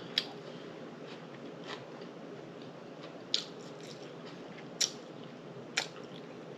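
Close-up chewing of a mouthful of chicken taco salad, soft and steady, broken by four short sharp clicks spread through it.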